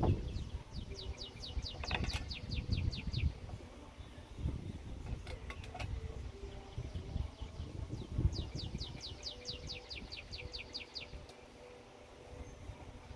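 A songbird singing a trill of rapid repeated high notes, about five a second, twice, each lasting about three seconds. Under it is a low rumble with a few soft knocks.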